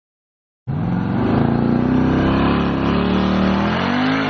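Car engine revving hard, its pitch rising and falling, cutting in abruptly about a second in.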